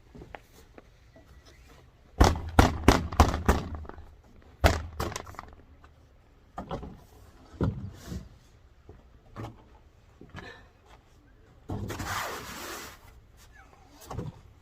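A quick run of about five sharp knocks, then single thuds every second or so, and a short burst of rustling near the end.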